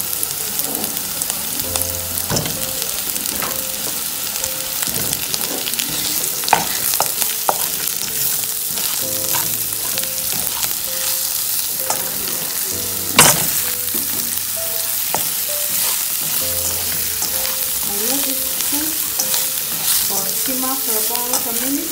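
Button mushrooms, sliced onion and garlic sizzling in hot oil in a nonstick pan, stirred with a wooden spatula that scrapes and knocks against the pan. One louder knock comes a little past halfway.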